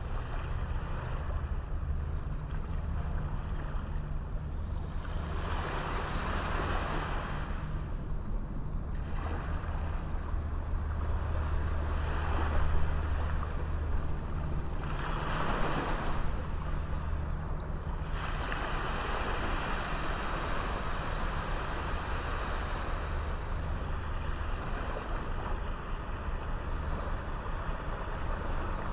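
Ocean waves breaking and washing up on a small beach, surging every few seconds over a steady low rumble.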